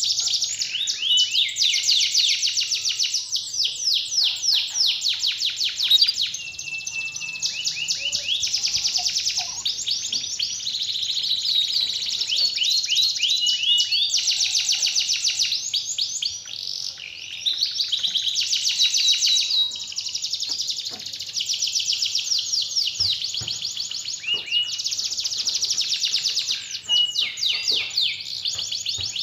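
Domestic canary singing long, rapid trills and rolling phrases, high-pitched, one phrase after another with short breaks. It is a lure song played to set a silent canary singing.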